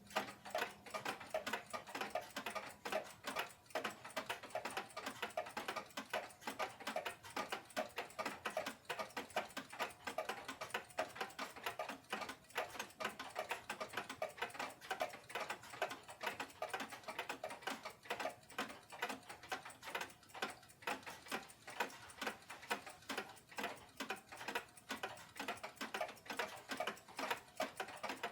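Rapid, irregular mechanical clicking, many clicks a second without a steady beat.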